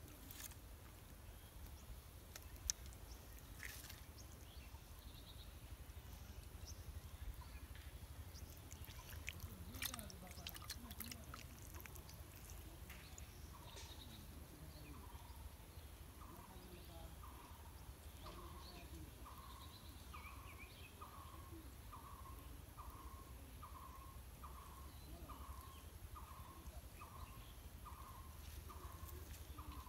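A bird calling one short note over and over, a little more than once a second, starting about halfway through and going on steadily. A few light clicks sound before it begins.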